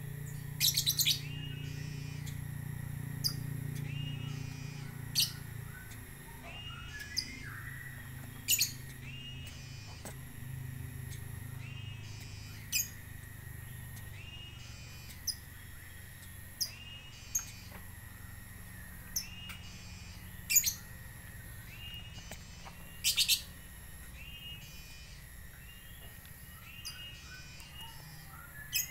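Birds chirping: short, sharp high chirps every few seconds over a faint, fast repeating twitter, with a low hum under the first ten seconds or so.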